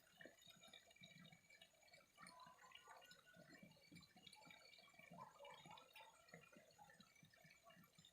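Faint trickling and gurgling of flowing water, many small irregular drips and splashes.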